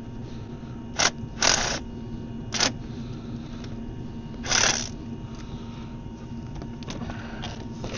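Hand tools working on metal: four short scraping, clicking bursts from an Allen key and tools on the starter motor bolt, over a steady low hum.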